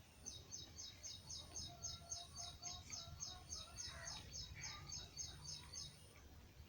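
A bird calling a fast, even series of high chirps, about three or four a second, for some five and a half seconds, with other birds calling more softly beneath it.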